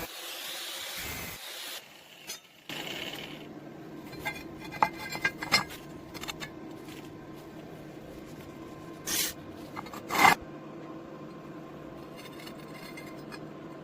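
Clinks and scrapes of iron angle pieces being handled and fitted, with scattered sharp metal clicks and two louder scrapes about nine and ten seconds in, over a steady low hum.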